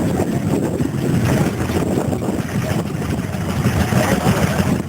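Stationary engine running steadily with a low, rough chugging.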